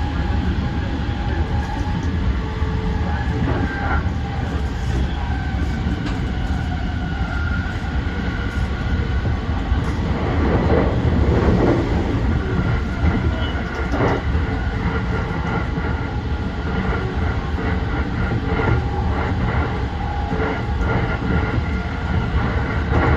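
JR East E235-1000 series electric train running at speed: a steady rumble of wheels on rails with steady whining tones above it. A cluster of louder knocks comes around the middle, as the wheels pass over track joints.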